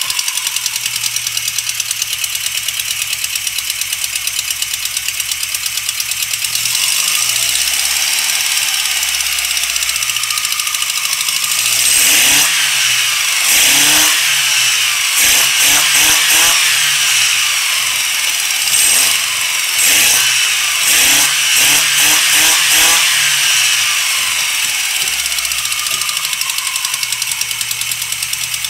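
Four-cylinder car engine with individual intakes per cylinder, idling, then revved: the revs climb gently, then come a series of quick throttle blips, each rising and falling, before it settles back to idle near the end.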